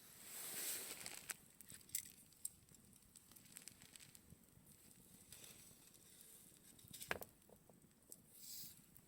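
Campfire burning quietly: sparse crackles and small pops from the burning wood, with one louder pop about seven seconds in. A soft rush of flame or air swells up near the start and again near the end.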